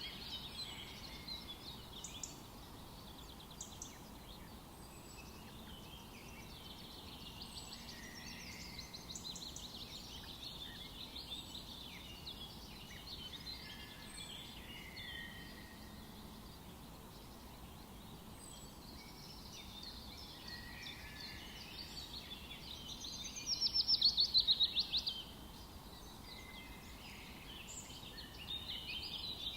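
Forest ambience: several birds singing and calling over a steady background hiss. Roughly three quarters of the way through, one bird gives a loud, rapid trilled song lasting about two seconds.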